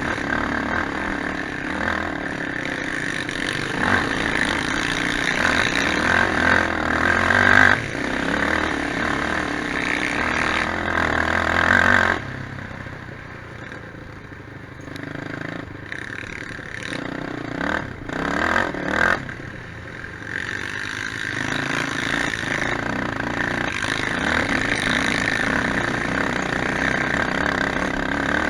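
Quad bike (ATV) engines running and revving loudly. About twelve seconds in the sound drops off sharply and stays quieter for several seconds, with a few short revs, then builds back to steady loud running for the rest of the stretch.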